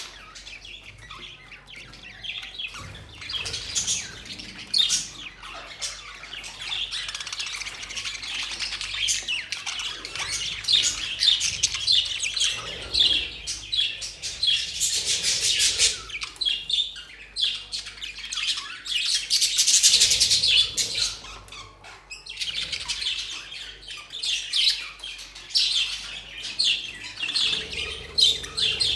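A colony of budgerigars chirping and chattering all at once: a dense, unbroken stream of short, high calls from many birds.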